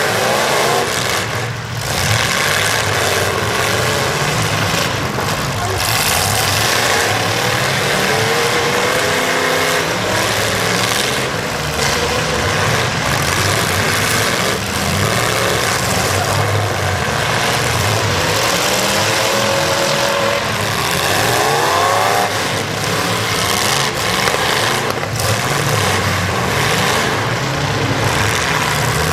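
Demolition derby cars' engines revving hard over and over, pitch rising and falling, under a constant loud din of running engines.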